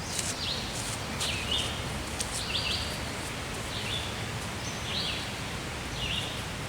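A songbird singing short, repeated phrases, about one a second, over a steady outdoor background hiss.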